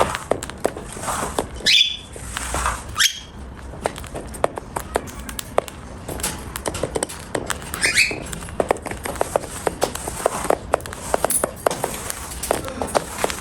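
Cockatiel eating: a steady run of small crisp clicks and crunches from its beak working the food, with three short chirps, about two seconds in, at three seconds, and around eight seconds.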